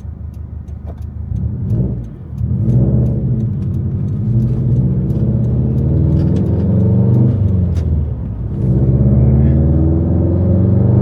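Subaru WRX STI's turbocharged flat-four accelerating hard through the gears, its exhaust loud with both rear silencers (backboxes) deleted. The revs climb, drop at a gear change about two seconds in, climb again, drop once more around eight seconds in, then rise again.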